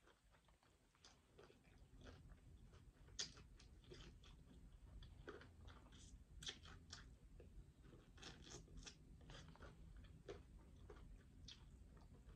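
Faint, close-miked chewing of fried chicken wings: irregular small crunches and clicks, a little busier after the first couple of seconds.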